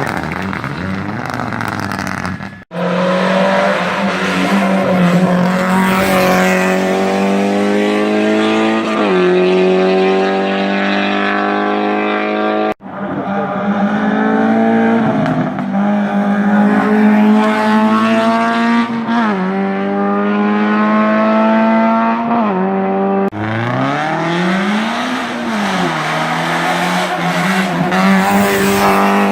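Race car engines accelerating hard, each climbing in pitch through the gears and dropping back at every upshift, in several short passes cut one after another.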